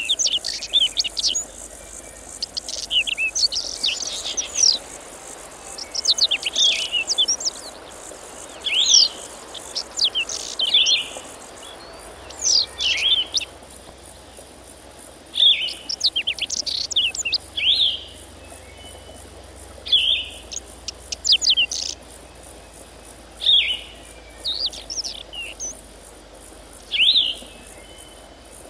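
A small bird singing short, high chirping phrases that repeat every two to three seconds, over a faint steady hum of insects.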